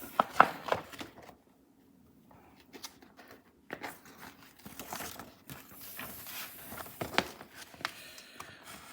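Paper pages of a model locomotive's instruction manual rustling as they are turned and handled, with a few sharp clicks and taps.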